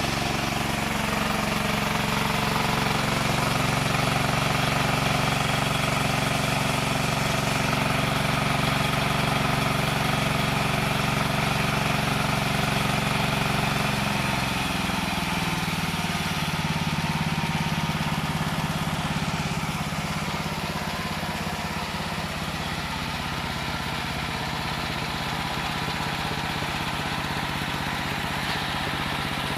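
Engine-driven wood saw running steadily; about halfway through its pitch drops and settles lower.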